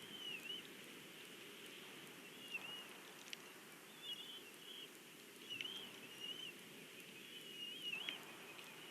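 A bird calling outdoors: five short, wavering high-pitched notes, one every one and a half to two seconds, over a steady low background hiss, with two faint clicks in between.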